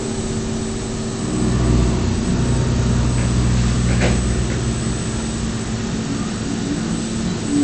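DMU 65 CNC machining centre milling a flange: a steady spindle tone over machine hum, with a heavier low rumble from about a second in until about halfway, and a single sharp click near the middle.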